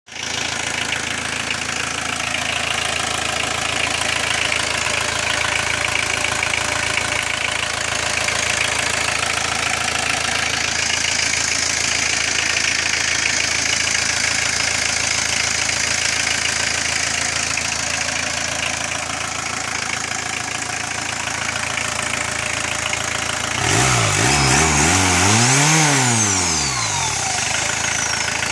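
VW Golf Mk2's 1.6 engine (44 kW) idling steadily, then revved once, its pitch rising and falling back to idle about four seconds before the end.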